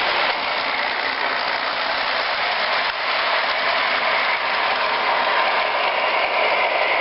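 Model train running along its track, a steady mechanical whir of motor and gears.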